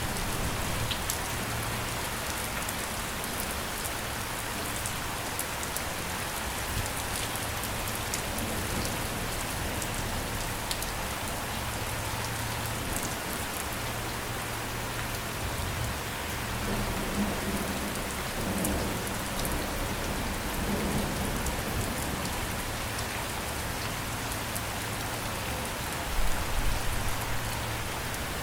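Steady rain falling, with individual drops ticking on a surface. A low rumble of thunder swells about two-thirds of the way through, and a louder, deeper one comes near the end.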